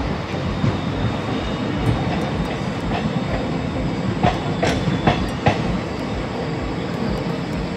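ICF passenger coach running along the track: a steady rumble, with four sharp clicks of the wheels a little past halfway.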